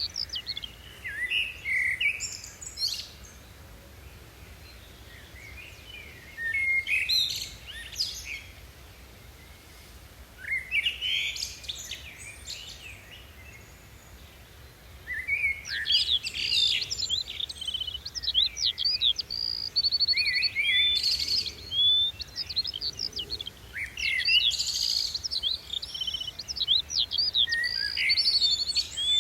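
Songbirds chirping and singing: bursts of quick high chirps with quiet gaps in between, then busier, almost continuous calling from about halfway, with a few short rapid trills.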